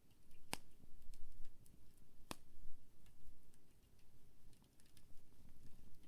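Wood campfire crackling: scattered small ticks and snaps, with two sharper pops, one about half a second in and one a little after two seconds.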